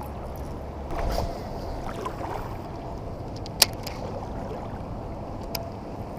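Kayak on shallow river water: steady low water noise around the hull, with a low bump about a second in. A sharp click a little past halfway is the loudest sound, and a fainter click comes near the end.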